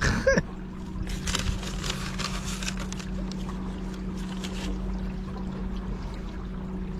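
Small boat's battery-powered electric motor humming steadily while under way. A hissing rush joins it about a second in and again about four seconds in.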